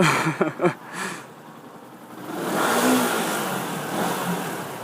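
Yamaha YZF-R125's single-cylinder 125 cc engine with its stock exhaust being revved while standing: a few sharp cracks at the start, then a loud rev that swells about two seconds in, peaks and dies away.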